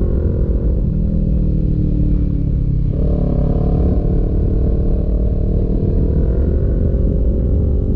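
Sport motorcycle engine running under way as heard from the rider's seat, with heavy wind rumble on the microphone. Its pitch sags, then jumps up about three seconds in, eases off, and rises again near the end as the throttle is worked through the curves.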